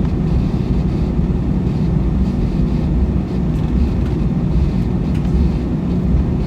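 Steady low rumble inside the cabin of an Airbus A321 taxiing before takeoff: jet engines near idle and the wheels rolling over the pavement, with a few faint ticks. The level stays even throughout.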